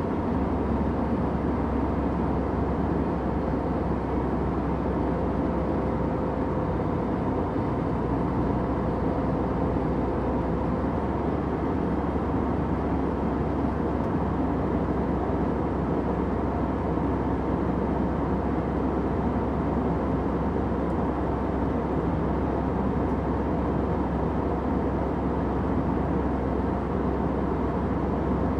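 Steady airplane cabin noise: an even, unbroken rumble with a faint hum running through it.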